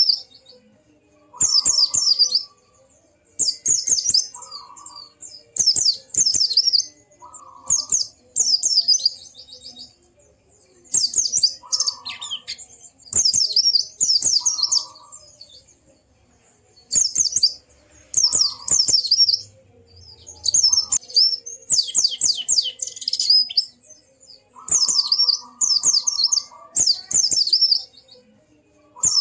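White-eye (pleci) singing in quick, high, chattering trilled phrases, each a second or less long, repeated with short pauses between them.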